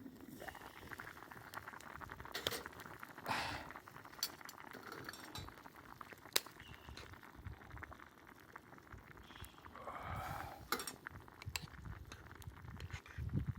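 Scattered light clinks and knocks of cooking utensils against pots and dishes during campfire cooking, with a few short noisy swishes, the longest about ten seconds in.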